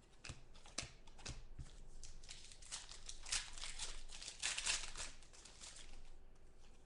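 Crinkling and rustling of a trading-card pack wrapper and cards being handled, with small clicks, busiest in the middle.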